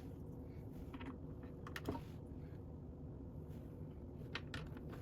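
Light plastic clicks of Lego bricks being handled and pressed together, a handful of scattered sharp clicks a second or so apart.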